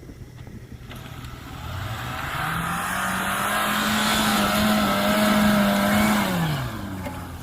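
Small off-road 4x4's engine revving up, holding high revs for a few seconds, then easing back down near the end.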